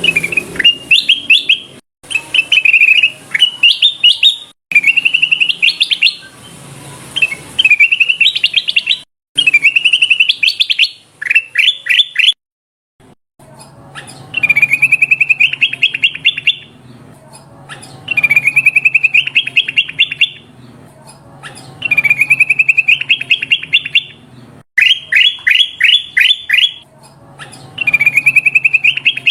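Kutilang emas bulbul singing in repeated short phrases, each a quick run of rising chirps, with a longer pause about halfway through. The phrases are loud and clear: a lure recording used to draw in wild birds.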